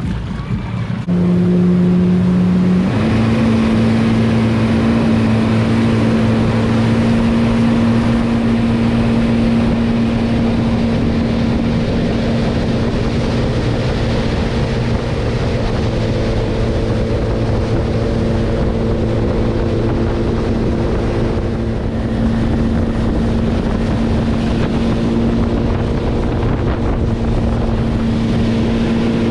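Motorboat engine speeding up about a second in, its pitch stepping up again near three seconds, then running steadily at speed.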